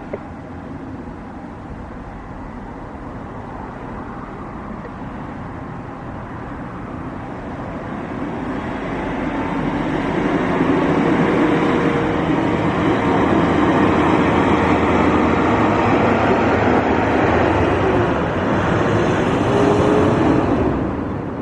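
Jet airliner's engines passing close by, a rushing noise with a faint whine that grows louder for about ten seconds, stays loud, then begins to fade near the end.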